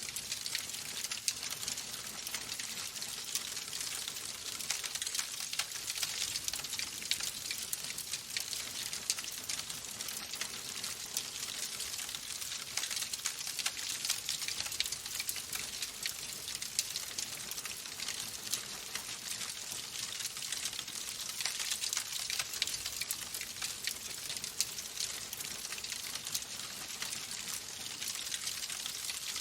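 Wood fire crackling in a fireplace: a steady hiss peppered with dense, rapid small crackles and pops.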